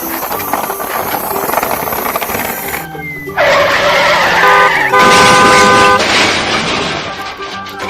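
Recorded truck sound effect: a running engine, then two loud horn honks past the middle, the second about a second long.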